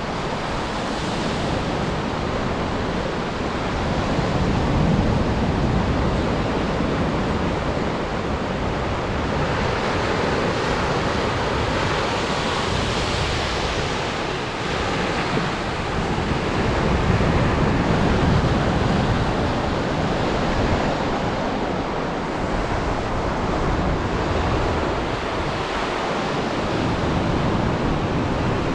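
Atlantic surf breaking and washing up a sandy beach, a steady rush that swells louder with each wave every several seconds, with wind on the microphone.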